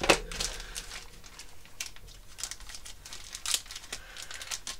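Plastic bag crinkling and rustling as bagged plastic model-kit parts are handled and taken out, with a sharp click right at the start and many small crackles after it.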